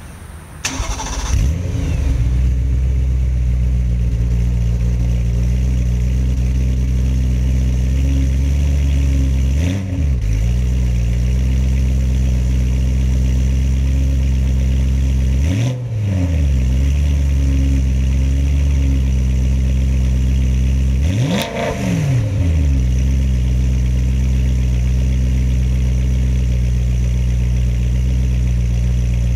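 BMW M3 E92's 4.0-litre V8 starting up about a second in and settling into a steady idle. Its exhaust is revved briefly three times: about ten seconds in, about sixteen seconds in, and around twenty-one seconds in.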